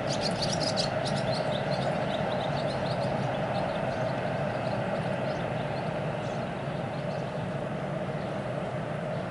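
Freight train of empty open coal wagons rolling away on the track: a steady rumble of wheels on rail that slowly gets quieter.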